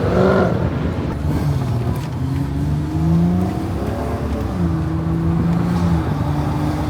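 Car engine running, its pitch rising and falling a few times as it speeds up and eases off, then holding steady for about a second before dropping again near the end.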